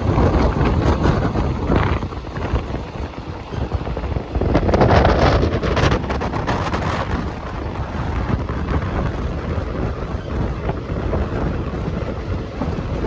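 Passenger train running along the track, heard from on board with wind rushing over the phone's microphone. About four seconds in, the rush and a dense rattle grow louder for a couple of seconds, then settle back.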